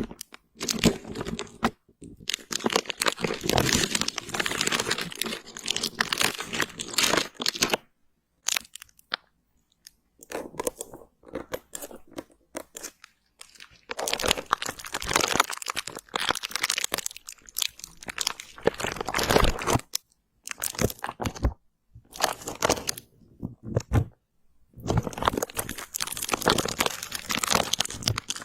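Close-miked crunching and crinkling sounds come in bursts of several seconds, separated by short silent pauses.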